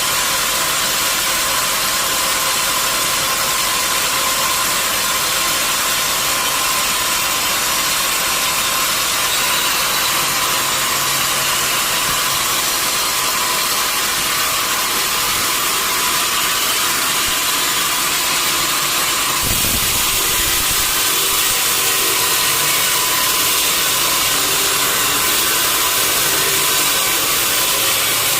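Sawmill machinery running with a loud, steady noise, and a brief low thud about two-thirds of the way through.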